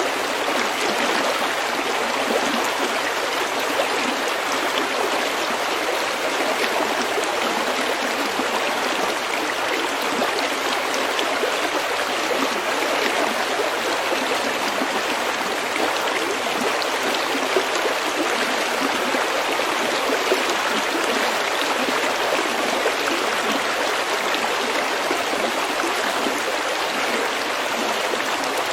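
Small stream babbling and gurgling steadily over pebbles, a constant even flow with no pauses.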